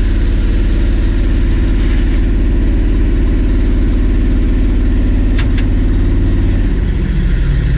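1959 Ford F500 truck engine running steadily under way, loud because its muffler is worn out and needs replacing. The engine note shifts near the end, and two brief clicks come about two-thirds of the way through.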